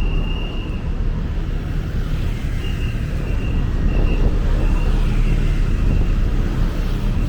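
Steady city street traffic, a continuous low rumble of passing cars and engines. A thin high tone comes and goes in short broken pieces through the middle of it.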